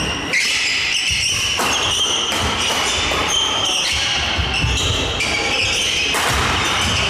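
Doubles badminton rally: a quick run of racket strikes on the shuttlecock, with sneakers squeaking and thudding on the court floor, echoing in a large hall.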